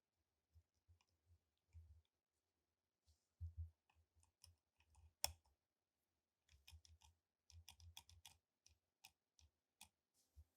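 Faint clicks and light taps of small pistol parts being handled, with one sharper click about five seconds in and a quick run of clicks from about six and a half seconds.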